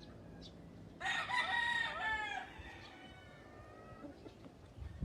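Rooster crowing once, a loud call of about a second and a half starting about a second in, with fainter crows and clucks from other chickens behind it.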